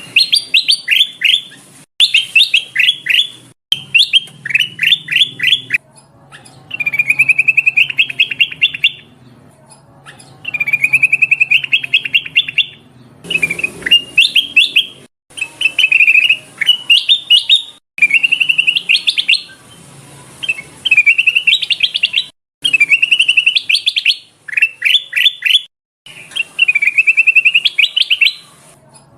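Kutilang emas, a bulbul, calling in repeated phrases of fast chirping notes, a new phrase every second or two with short pauses between. It is a lure call (pikat), the female's call used to draw in males.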